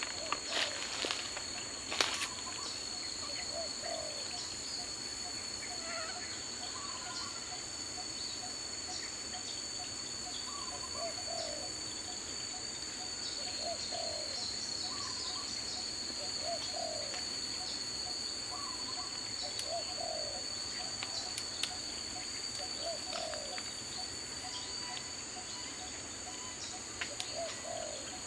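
Daytime forest ambience: a steady high-pitched insect drone with a bird repeating a short low call every two to three seconds. A couple of sharp clicks come near the start.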